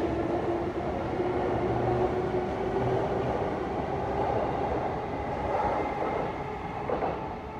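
JR commuter train in Shonan livery pulling out along the platform close by: steady running and wheel rumble with a motor whine edging up in pitch as it gathers speed. The noise drops away near the end as the last car passes.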